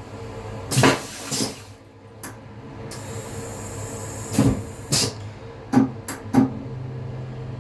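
A series of short, sharp knocks and clunks, like fittings or a lid being opened, shut and tapped in a small room, with three quick ones close together near the end. A steady low hum comes in just after them.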